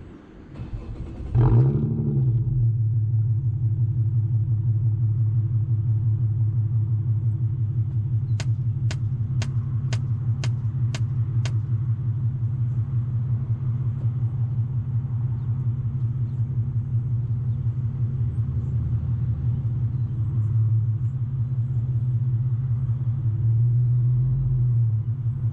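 Infiniti Q50 with a muffler-delete axle-back exhaust starting up about a second in, flaring briefly, then settling into a steady deep idle drone, with slight rises in revs near the end. A quick run of seven sharp ticks sounds in the middle.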